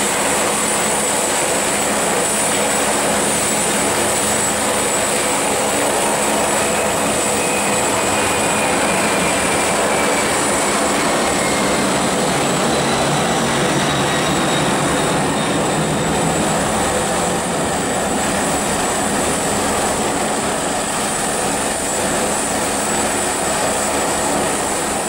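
Boeing 767 airliner's jet engines running loud and steady, with a high whine and faint whistling tones that slowly fall in pitch as the aircraft passes.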